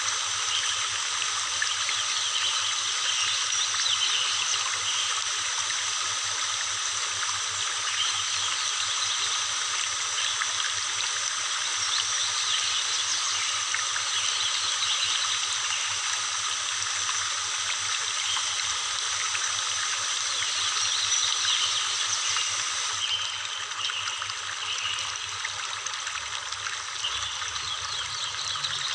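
Horsetail waterfall: water pouring steadily down the rock face, a constant rushing splash. About three-quarters of the way through it turns slightly quieter and duller.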